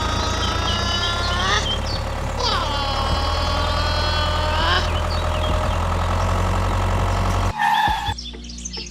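Tractor engine idling steadily, with two long pitched tones over it that each dip and then hold. The engine cuts off abruptly near the end, and bird chirps follow.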